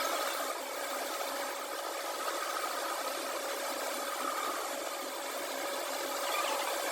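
A machine running steadily, with a constant hum and a light rattle.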